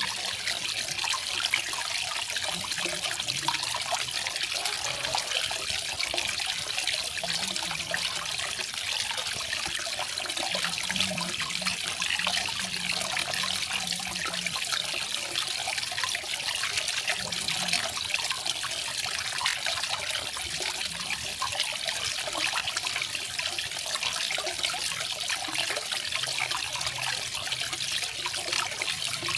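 Small garden waterfall, water splashing and trickling steadily into a pool.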